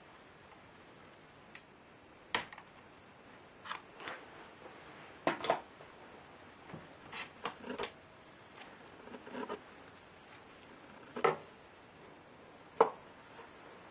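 Irregular light clicks and knocks of small plastic and metal laptop parts and tools being handled during disassembly, the sharpest about two, five, eleven and thirteen seconds in.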